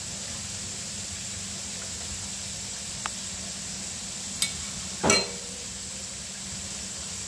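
Food frying in a wok over a gas burner: a steady sizzling hiss with a low hum under it. A small tick comes about three seconds in, and a short knock, the loudest sound, comes about five seconds in.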